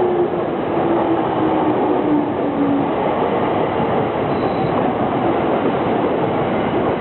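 A train running through a station with a steady rolling rumble; a whining tone slides down in pitch over the first three seconds or so.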